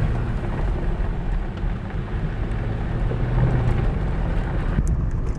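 A vehicle driving on a dirt forest road: a steady low engine hum under the even rush of tyres on the rough surface, with a few sharp ticks near the end.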